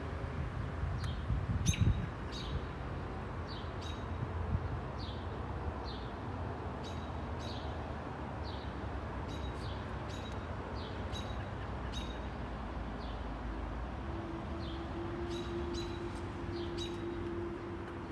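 A bird chirping over and over, short sharp high chips about once or twice a second, over a steady low rumble. A few low bumps come in the first two seconds, and a steady low hum comes in about three-quarters of the way through.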